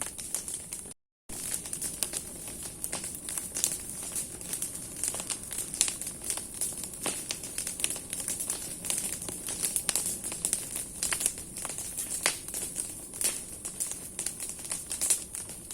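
Large bonfire of burning branches crackling: many sharp, irregular pops and snaps over a steady hiss. The sound cuts out completely for a moment about a second in.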